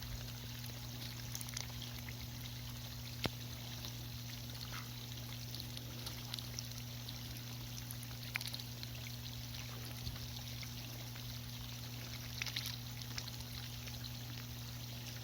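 Rain falling with water running and trickling, and scattered small taps, over a steady low hum.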